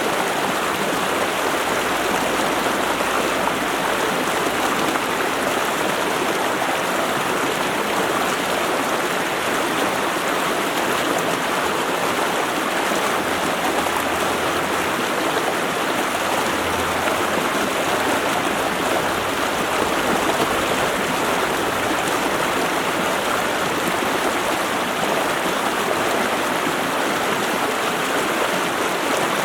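Stream water running steadily: a continuous, even rush of flowing water that does not change.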